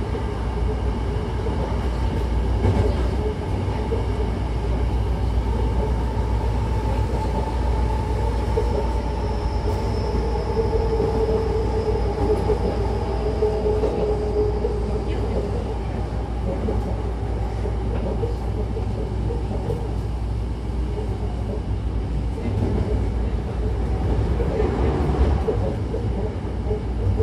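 Hankyu Takarazuka Line electric train heard from inside the carriage while running: a steady rumble of wheels on the track, with a faint whine that comes and goes in the middle.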